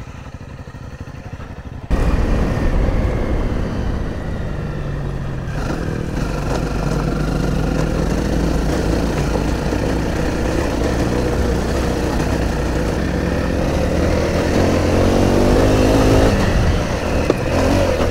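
Single-cylinder dual-sport motorcycle engine running quietly, then about two seconds in suddenly getting much louder as the bike pulls away and rides on steadily.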